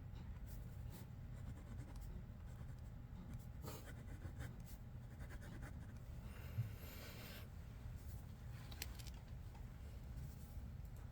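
Pencil scratching on paper in light, irregular sketching strokes over a low steady room hum. A longer scratching stroke and a brief soft knock come about six and a half seconds in.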